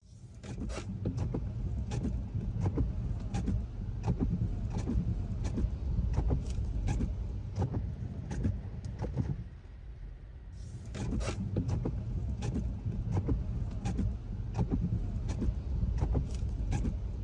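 Tesla rolling slowly over the ground: a steady low tyre rumble with many irregular clicks and knocks, easing for a moment about ten seconds in.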